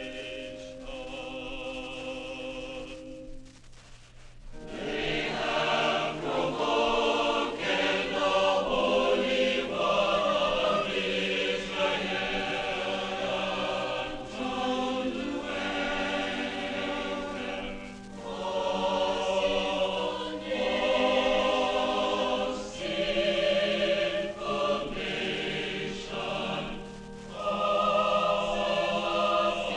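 Choir singing a sacred setting of Isaiah 1. They hold the word "nation", drop away briefly about four seconds in, then come back in fuller and louder, in phrases with short breaths between them.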